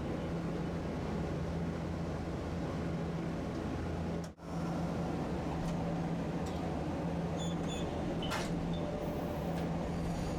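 Tosaden streetcar running along its tracks: a steady rolling rumble with a constant low hum, cut off for a moment about four seconds in, and faint high tones in the last few seconds.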